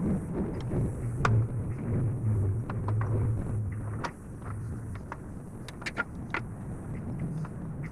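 Skid steer engine running, working harder and louder for a couple of seconds before settling back, with scattered sharp knocks and clanks over it.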